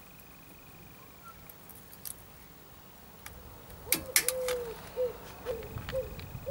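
Sharp metallic clicks and taps from circlip pliers and a steel circlip being seated in the hub carrier's outer groove, starting about four seconds in. Alongside them comes a run of short, repeated rising-and-falling cooing notes, about two a second.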